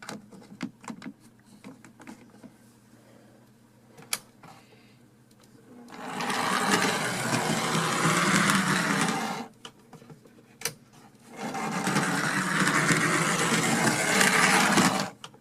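HO scale Rivarossi 0-4-0 cab forward model locomotive running on its track, its small electric motor and gears whirring steadily in two stretches of about three and a half seconds each, after a quieter start with scattered light clicks. It runs smoothly after cleaning and lubrication.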